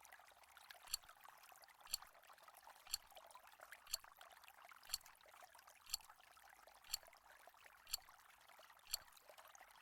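Quiz countdown-timer sound effect: faint, sharp clock-like ticks about once a second, over a soft steady hiss.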